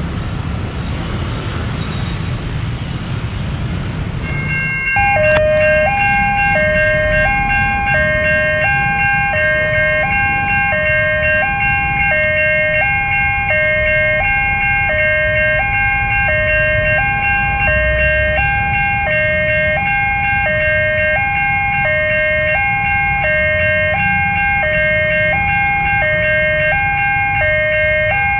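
Road traffic noise, then about five seconds in a railway level-crossing alarm starts: an electronic two-tone signal switching between a higher and a lower note about every 0.7 seconds, repeating steadily.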